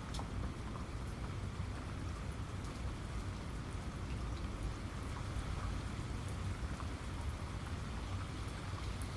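Steady rain with scattered individual raindrops ticking on a surface.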